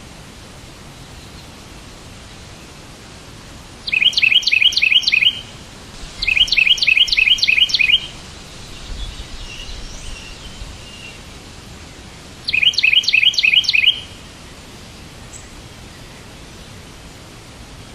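A songbird singing three phrases of rapid, evenly repeated high chirps, about five notes a second, each phrase lasting one to two seconds, with fainter bird chirps between them over a steady low hiss.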